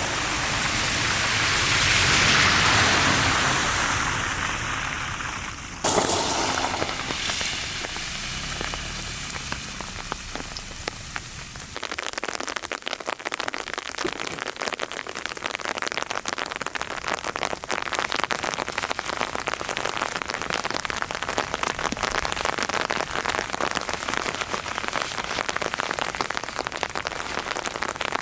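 Heavy rain falling. The sound changes abruptly twice, at about 6 and 12 seconds in. After that comes a dense, steady pattering of raindrops on a surface.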